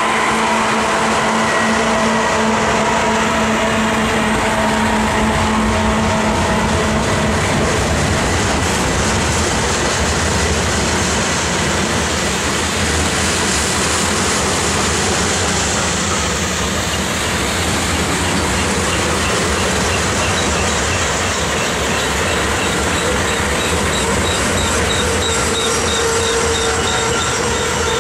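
Freight train rolling past close by: a steady rumble and clatter of freight cars' wheels on the rails. A diesel locomotive's low hum fades away during the first several seconds as the locomotives pull off.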